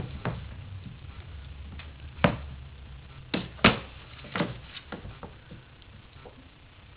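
A few irregular knocks and taps, the loudest about two and a quarter and three and a half seconds in, over a low steady hum.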